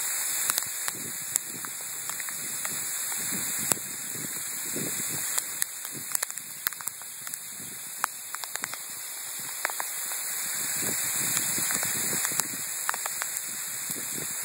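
Sleet and rain coming down hard: a steady hiss with many sharp, irregular ticks of ice pellets striking surfaces.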